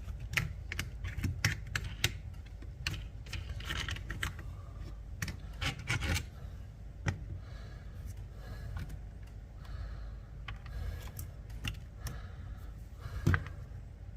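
Scattered clicks, taps and light rattles of a small cordless chainsaw being handled while its chain adjuster and lock knobs are worked, with a sharper knock about halfway and a louder one near the end.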